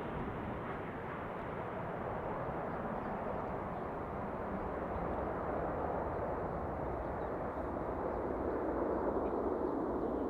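Jet airliner engine noise heard from a distance on approach: a steady rushing sound whose hiss fades while it grows slightly louder and deeper toward the end.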